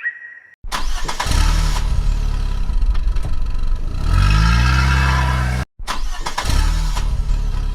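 Engine running, starting about half a second in, with its pitch rising as it revs midway. It cuts out abruptly for a split second near the six-second mark, then carries on.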